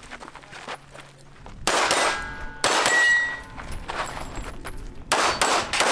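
Pistol shots fired at steel targets, with the steel plates ringing after hits. The shooting starts a good second and a half in, comes as a few shots around two to three seconds in, and ends in a quick string of shots near the end.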